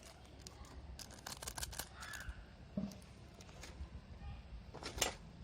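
Small twig fire crackling in a compact wood stove, with scattered irregular snaps and a sharper pop about five seconds in.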